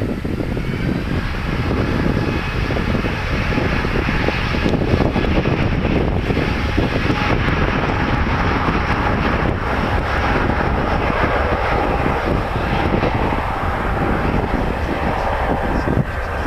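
Jet engines of a British Airways Airbus A380, four Rolls-Royce Trent 900 turbofans, running: a steady, loud engine noise with a faint whine on top that grows stronger about five seconds in.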